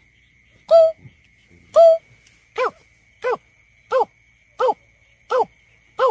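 Greater painted-snipe calling: a series of hollow, owl-like hoots. Two longer, steady notes come first, then from about two and a half seconds in a quicker run of six shorter hoots that rise and fall in pitch, about one every 0.7 s.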